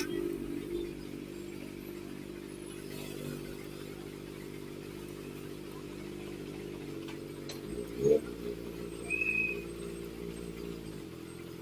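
Kawasaki ZX-4RR's 399 cc inline-four with an SC Project exhaust idling steadily, with one quick throttle blip about eight seconds in.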